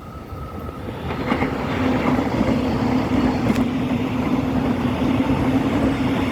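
Metro Trains Melbourne electric suburban train approaching and running past. Its noise builds over the first two seconds, then holds steady and loud with a low hum.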